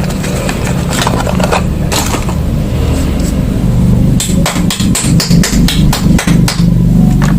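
Soap packaging being opened and handled: a quick run of sharp clicks, taps and crinkles, thickest in the second half, over a steady low hum.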